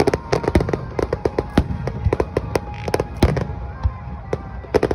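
A fast barrage of aerial firework shells bursting: several overlapping bangs and crackles a second, with a few heavier booms among them. Music plays faintly through loudspeakers underneath.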